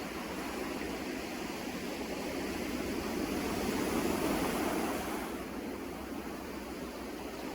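Sea waves breaking on the shore, a steady wash that swells to a louder surge about three to five seconds in and then falls back.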